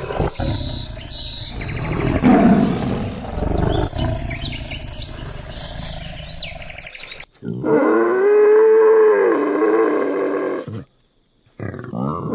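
A big cat roaring: a rough, rumbling roar for about seven seconds, then a long pitched roar that rises and falls before cutting off.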